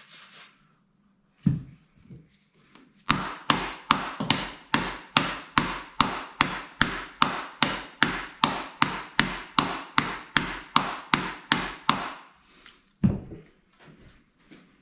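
Hammer tapping around an engine pulley to free it from its shaft: a single knock, then a steady run of about three sharp strikes a second, each ringing briefly, then one more knock near the end.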